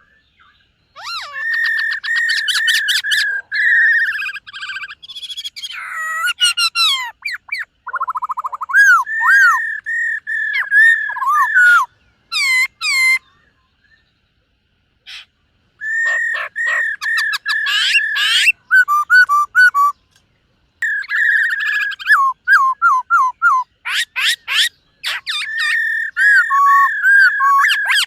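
Black-throated laughingthrush singing: loud, varied whistled phrases with sliding notes and fast runs of repeated notes, broken by a pause about fourteen seconds in and a shorter one near twenty seconds.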